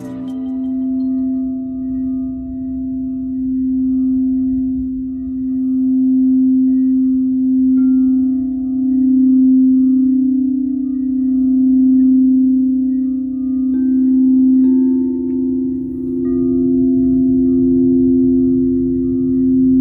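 Singing bowl ringing with a long, sustained low tone whose loudness swells and fades every couple of seconds. A few fainter, higher tones join about 8 and 14 seconds in.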